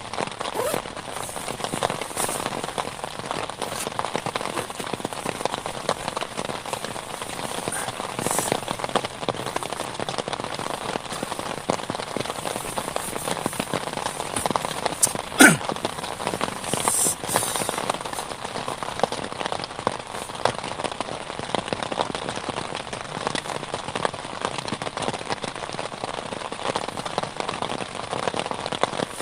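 Heavy rain falling steadily, a dense patter of drops striking a surface. About halfway through there is one sharp knock, the loudest moment.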